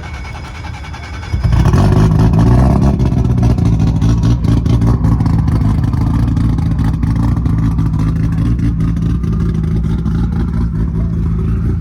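Car engine starting about a second in, louder for a moment, then running at a steady idle.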